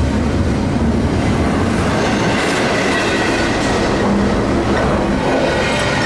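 Freight train rolling past: a loud, steady rumble of wheels on the rails.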